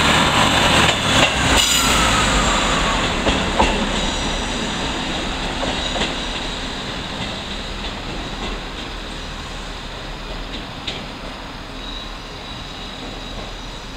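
Class 158 diesel multiple unit pulling away from a station: the engines and wheels run loud as the last carriage passes, with a few sharp clicks of wheels over rail joints in the first few seconds. The sound then fades steadily as the train draws away.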